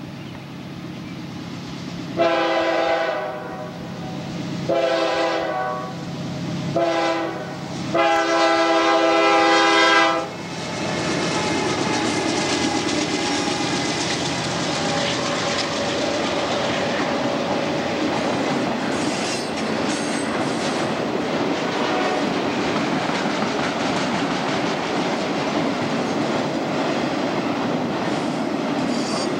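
Multi-tone air horn of a CSX freight train's lead locomotive, a C40-8W, sounding the grade-crossing signal: long, long, short, long. After the last blast the locomotives and a long string of auto rack cars pass, with a steady rumble and wheel clatter.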